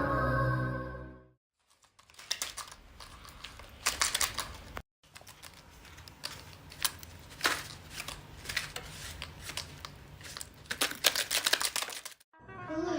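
Music fading out in the first second, then irregular crackling and sharp clicks of stiff paper being handled, broken by a short gap about five seconds in.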